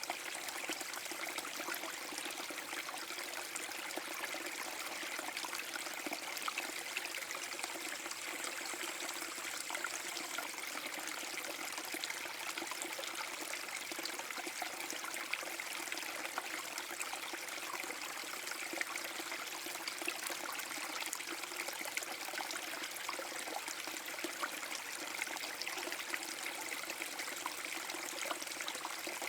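Small forest-brook waterfall: water flowing and splashing steadily over the drop, with many small splashes.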